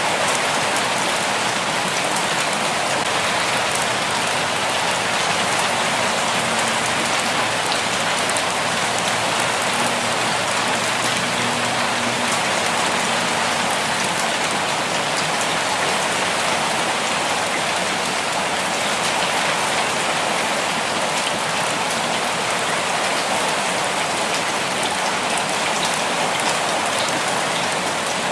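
Steady rainfall, an even hiss of drops pattering on a surface with no change in strength.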